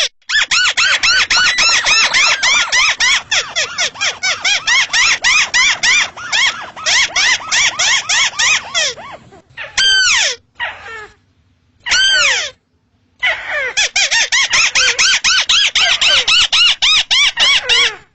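Crake (Indonesian 'burung tikusan', a paddy-field rail) calling: a fast, harsh chattering run of arched notes, about six a second. It breaks off twice into a few single, longer falling calls before the rapid run resumes.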